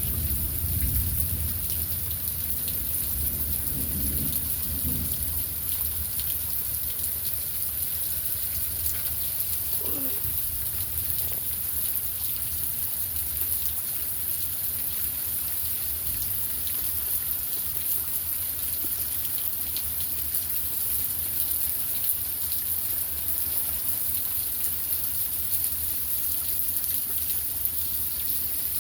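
Heavy rain falling steadily, a dense hiss of drops on surfaces, with a low rumble in the first few seconds.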